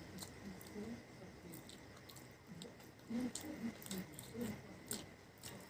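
A person chewing food close to the microphone, with irregular wet mouth clicks and smacks that get louder about three seconds in.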